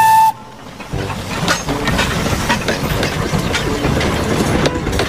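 Steam-train sound to go with a Thomas toy train: a whistle that cuts off just after the start, then from about a second in a steady, fast clickety-clack of a train running.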